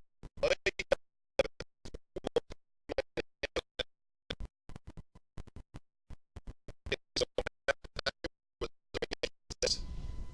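Badly broken-up recorded audio: the sound cuts in and out several times a second, leaving short stuttering fragments separated by dead silence, a choppy glitch caused by audio dropouts in the recording.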